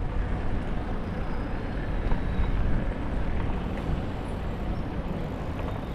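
Wind rushing and buffeting over the GoPro's microphone while riding a bicycle, a steady rumbling noise that wavers in strength.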